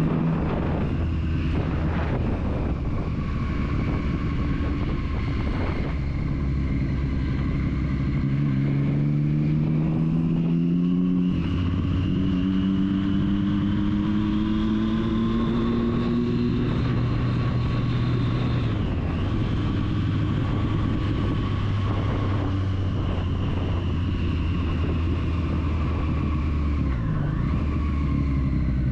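Triumph Street Triple's three-cylinder engine running under way. Its pitch climbs steadily and drops at gear changes, about a third of the way in and again past halfway, over steady wind and road noise.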